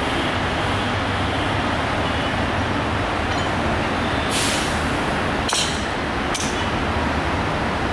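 Sonar Bangla Express diesel-hauled passenger train approaching along the track with a steady rumble. A short hiss comes a little past halfway, followed by two sharp clicks.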